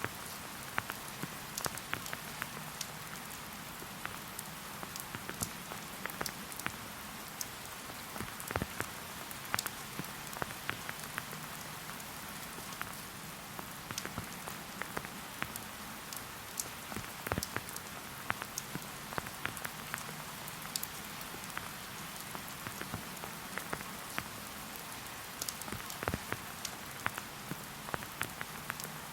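Steady rain: a constant hiss with many irregular, sharp drop taps landing close by.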